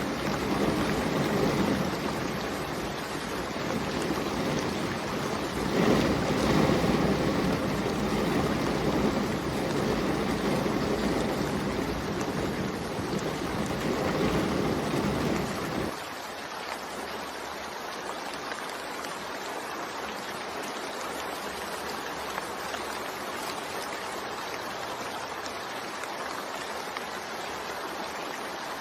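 Steady rain, heavy and full with a deep rumble and a swell about six seconds in, then abruptly lighter and quieter a little past halfway, a thinner even hiss of rainfall.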